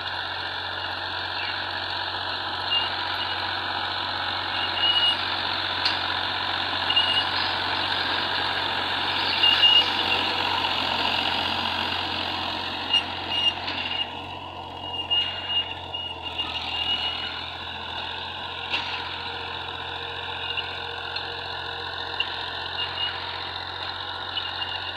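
John Deere tractor engine running steadily, with short high-pitched chirps recurring over it.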